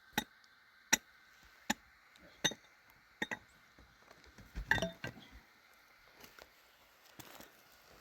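Sharp clinks of hard objects, about one every three-quarters of a second, then a louder cluster of knocks about five seconds in.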